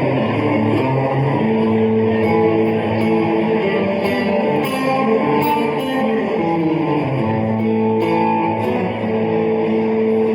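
Live country band playing an instrumental passage with no singing, guitars to the fore over a steady rhythm section with cymbal hits.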